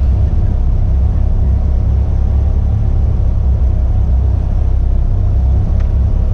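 Caterham's four-cylinder engine idling steadily, heard as a constant low rumble on the car's open-cockpit onboard camera.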